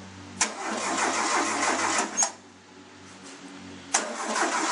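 1974 VW Beetle's air-cooled flat-four being cranked by its starter on a cold start: a click and about two seconds of cranking that stops, then a second click and cranking again near the end.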